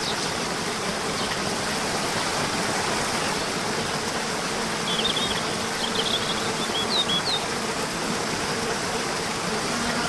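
Waterfall rushing, a steady even wash of falling water, with a few short high chirps about halfway through.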